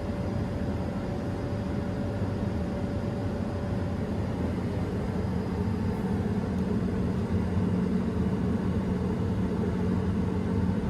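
Combine harvester running steadily: a continuous low engine drone with a steady hum.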